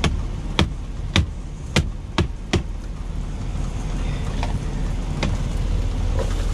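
Knife chopping a potato on a cutting board: six sharp strokes about half a second apart, then two lighter taps, over a steady low rumble.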